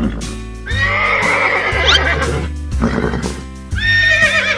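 Horse whinnying twice, about a second in and again near the end, each call wavering and ending in a quick rising squeal, over background music with a steady bass line.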